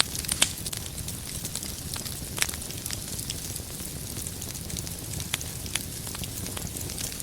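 Wood fire crackling in a fireplace: a steady low rumble and hiss of the flames with scattered sharp pops and snaps from the burning logs, the loudest about half a second in and another about two and a half seconds in.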